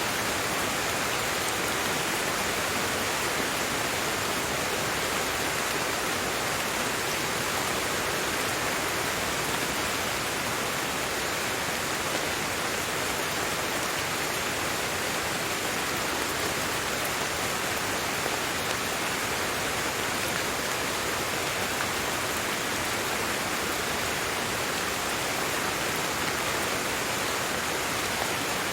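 Steady, even rain falling, with no thunder or other events.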